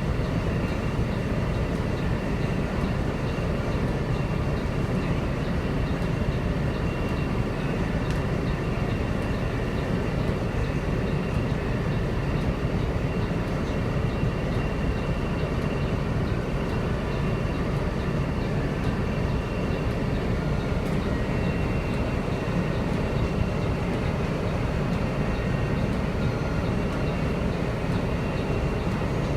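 Steady rushing noise of heavy rain and storm runoff water, even in level throughout and heaviest in the low range, with a few faint steady tones above it.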